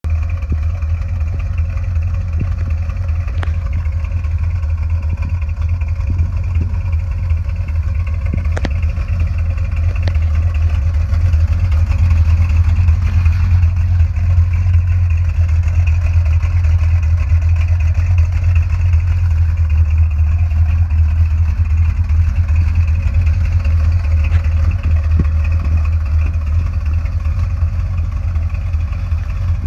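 A 1984 Chevrolet C10 pickup's engine running steadily with a deep low drone. A couple of sharp clicks are heard early on, and it gets a little louder partway through.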